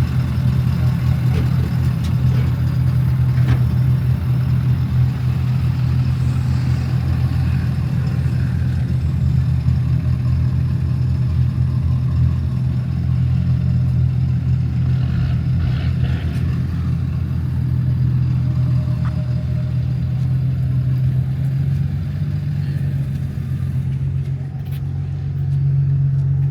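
A truck engine running steadily with a constant low drone. It eases off briefly near the end, then picks up again.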